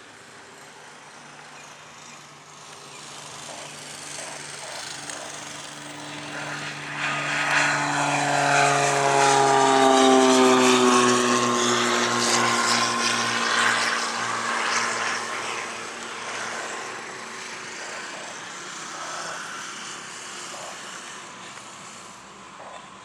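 An aircraft passing close by: its engine sound grows louder, peaks near the middle, then fades, with its engine tones sliding down in pitch as it goes past.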